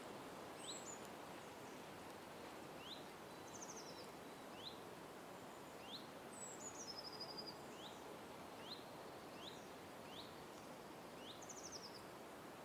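Birds calling: short, high chirps repeated about once a second, with a few higher, descending trilled notes, over a steady low background hum.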